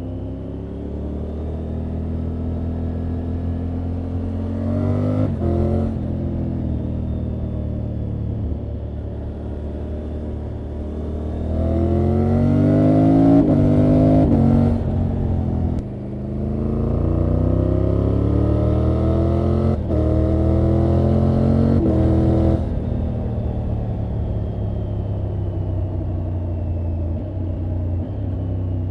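2024 Triumph Tiger 900 GT Pro's three-cylinder engine and exhaust on the move, the pitch climbing through the gears with brief breaks at each upshift. Twice, in the middle, it pulls hard under full throttle. Then the throttle shuts off suddenly and it runs on more quietly, the pitch falling.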